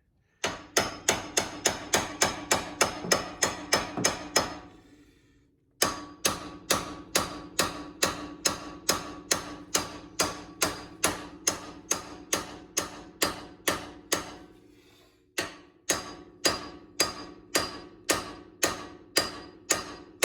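Hammer blows on steel, about four strikes a second in three runs separated by short pauses, each blow ringing. It is the hammering used to break a seized suspension or axle joint loose, which has not yet given way.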